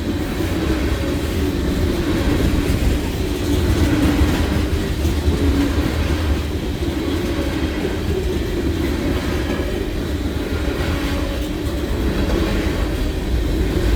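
Freight cars of a long manifest train rolling past, their steel wheels making a steady rumble on the rails.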